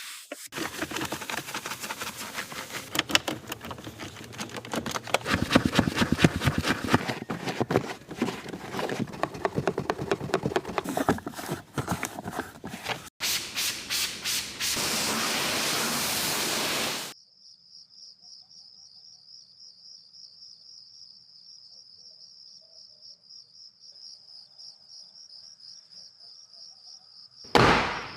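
Fast rubbing strokes against a surface, as in scrubbing during a car wash, going on for about seventeen seconds and then stopping abruptly. A cricket then chirps in a steady pulsing trill, and a short loud whoosh comes near the end.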